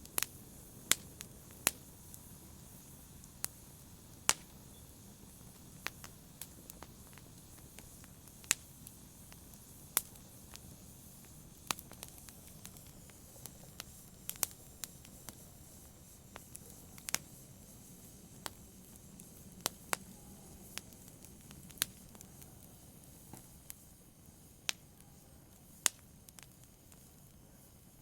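Wood fire crackling in a fireplace: sharp, irregular pops and snaps, roughly one or two a second, over a low steady hiss.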